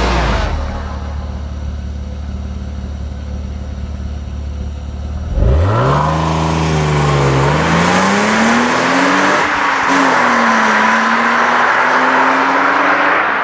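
BMW E36 323ti's 2.5-litre straight-six revving up about five seconds in, its pitch climbing as the car accelerates away, dipping once and then rising again. Before that, a low steady hum.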